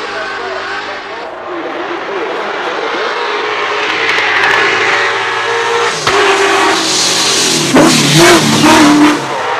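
Drift car engine revving hard and getting louder, its pitch swinging up and down, with the loudest rev peaks near the end.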